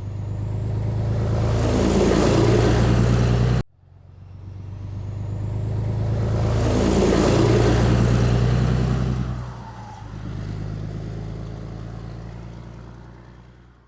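Semi truck engine getting louder as it accelerates, with a whine rising in pitch above the rumble. It cuts off suddenly a little over three seconds in, then the same build-up repeats and fades away near the end.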